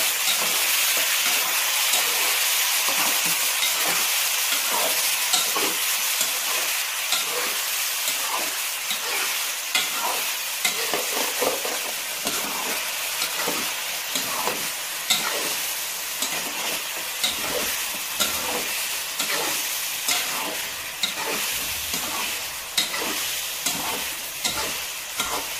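Chicken pieces and chopped tomatoes sizzling in hot oil in a metal pot while a slotted metal spatula stirs and scrapes against the pot in frequent short strokes, the mixture being fried well (bhuna) after the tomatoes go in.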